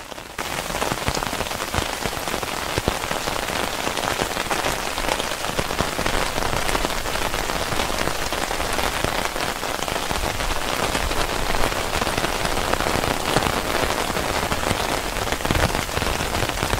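Steady heavy rain drumming on tent fabric: a dense patter of drops on the OneTigris Smoky Hut teepee tent.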